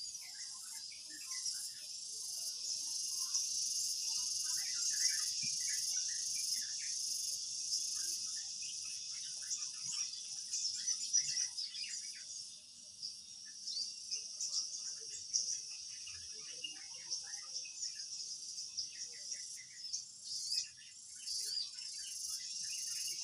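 Steady, high insect chorus with scattered short bird chirps.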